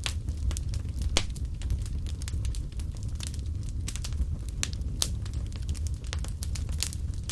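Fireplace fire crackling: irregular sharp snaps and pops, several a second, over a steady low rumble.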